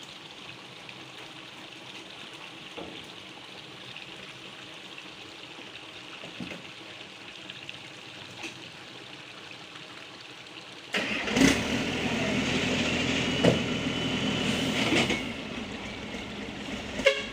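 Truck engine running, faint and steady at first, then suddenly much louder and close from about eleven seconds in, with a few sharp knocks.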